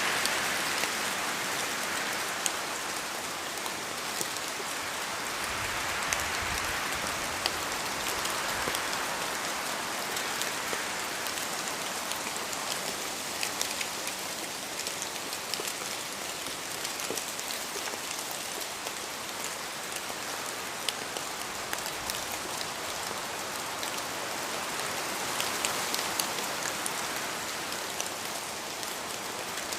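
Steady rain falling in a forest, with many single drops ticking sharply as they fall from the trees. The wind swells and eases a few times, near the start, about six seconds in and again near the end.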